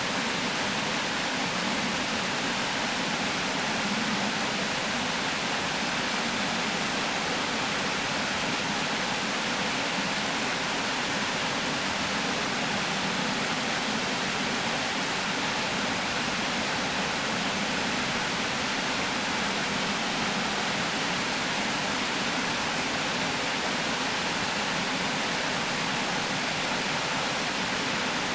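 Water pouring steadily over a river weir: a constant, full rushing noise without pause.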